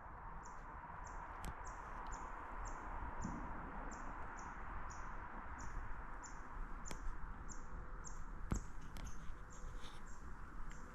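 A small bird calling: a thin, high note repeated evenly about twice a second. A few faint clicks sound over a steady low background hiss.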